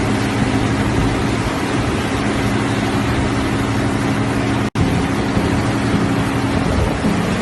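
A heavy vehicle's diesel engine runs steadily under a loud rushing noise. The sound breaks off for an instant about two-thirds of the way through and picks up again.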